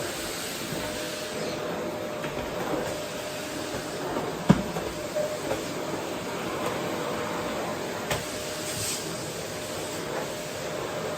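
Vacuum cleaner running steadily on a wooden floor, with a sharp knock about four and a half seconds in and a lighter one near eight seconds as the nozzle bumps along.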